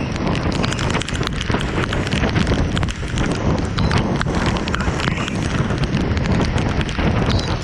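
Steady heavy rain, with many sharp drops pattering close by.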